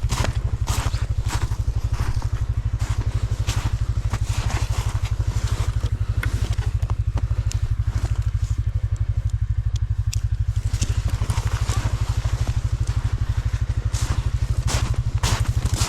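Stels Leopard 650 ATV engine idling steadily, a loud, even low throb, with scattered crunches and knocks over it.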